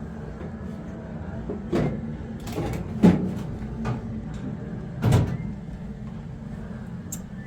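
Several sharp knocks and clatters, like objects being handled and set down, four or so spread over the few seconds, the one about three seconds in the loudest, over a low steady hum.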